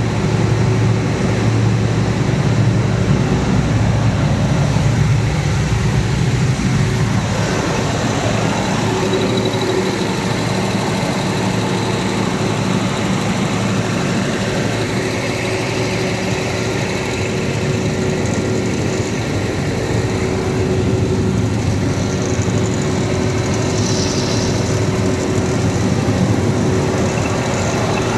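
Cummins diesel generator set running steadily, a constant engine drone with a steady hum.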